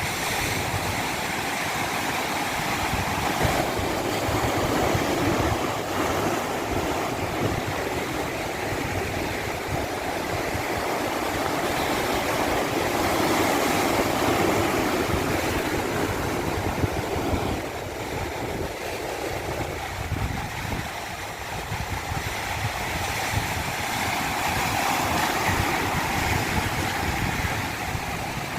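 Rushing water, a steady wash of noise that swells and eases slowly every several seconds.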